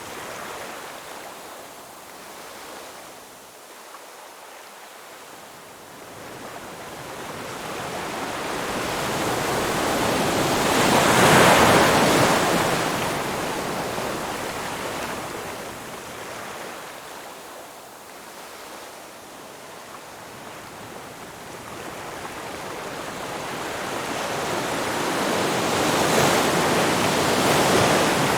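Ocean surf: waves breaking and washing up the shore, a steady hiss of water that swells and ebbs slowly, with one wave peaking about eleven seconds in and another near the end.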